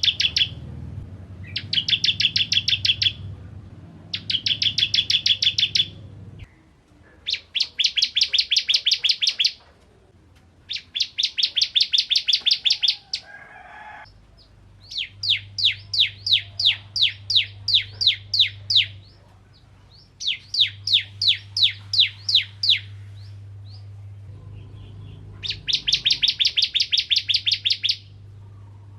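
Ciblek kristal (a prinia) singing: repeated phrases, each a quick run of sharp high chip notes lasting a second or two, with short pauses between. A faint low hum runs underneath.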